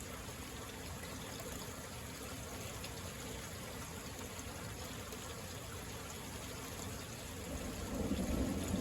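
Steady rain falling. Near the end a low rumble of thunder swells up beneath it.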